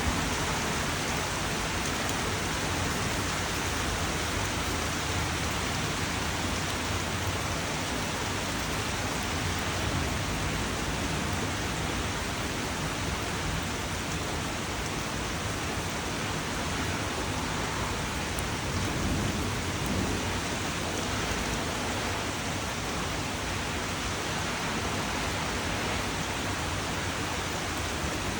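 Steady rainfall, an even hiss of many drops with no break or change in level.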